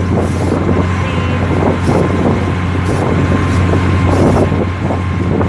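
Steady running noise of a moving vehicle, a continuous rumble with a low hum and wind on the microphone, with short hissy surges every second or so.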